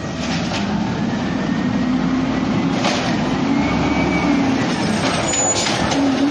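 Garbage truck's diesel engine running, its pitch rising and falling, with a couple of sharp metallic knocks.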